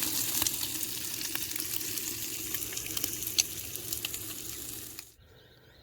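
Bacon and onions frying, a steady sizzle with scattered pops and crackles that cuts off suddenly about five seconds in.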